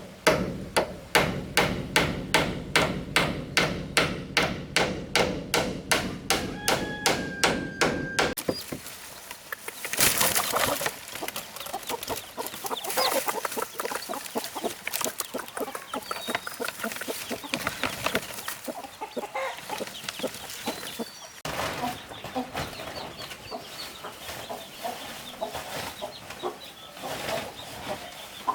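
Sharp strikes repeating evenly at about three a second, stopping abruptly about eight seconds in. After that come irregular knocks and chickens clucking.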